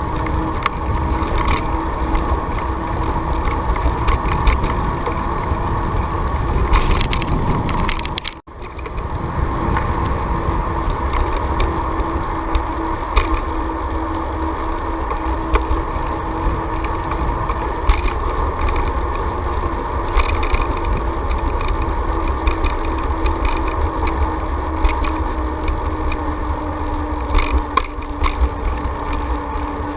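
Steady rumble and wind noise from riding along on a bicycle, with a steady hum running through it. The sound cuts out almost completely for a moment about eight seconds in.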